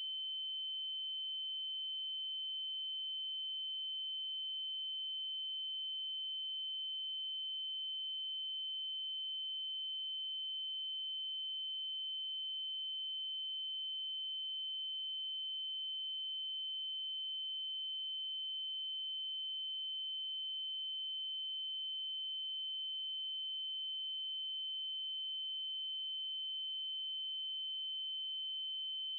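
Synthesized 3072 Hz triangle-wave tone, held at one steady pitch and level with faint overtones above it. A faint tick comes about every five seconds.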